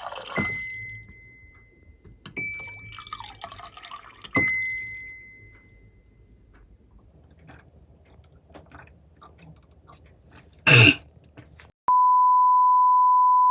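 Brief splashes of running water, each followed by a faint ringing tone, then scattered light clicks and one sharp knock. Near the end comes a loud, steady, single-pitch electronic beep, abruptly on.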